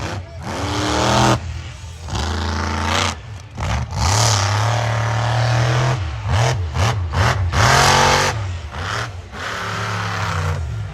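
Monster truck engine revving hard in repeated surges, its pitch climbing and falling several times as the throttle is blipped and held.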